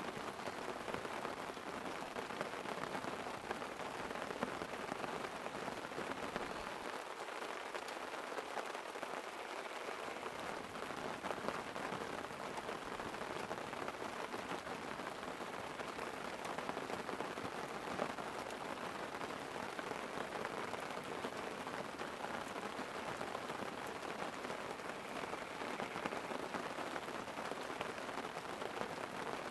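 Light rain falling on a tent: a steady hiss of rain with many small drop ticks and no single louder event.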